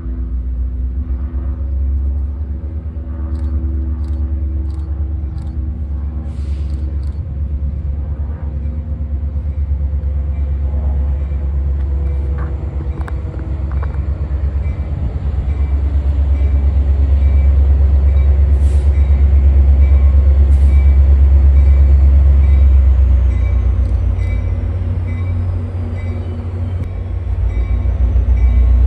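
Metra commuter train's diesel locomotive approaching and pulling into the station, with a deep engine rumble that grows louder through the middle.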